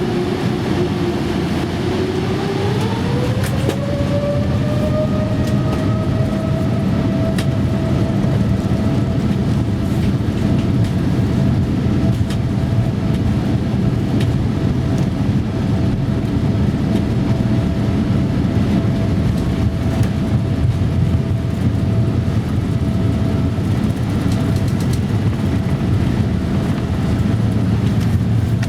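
Boeing 787-8 jet engines spooling up for takeoff, heard from inside the cabin: a whine rises in pitch a couple of seconds in and then holds steady over the loud low rumble of the takeoff roll, with a few light knocks.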